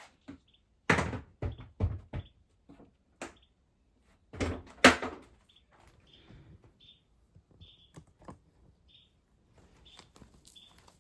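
A run of knocks and thuds, like things being handled or a door banging, with the loudest about four and a half seconds in. Faint short chirps follow.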